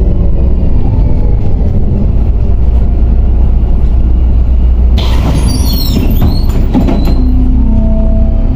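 Ride inside a MAZ 105.065 city bus: steady low rumble of the engine and running gear. About five seconds in comes a burst of high squealing and hiss lasting over a second.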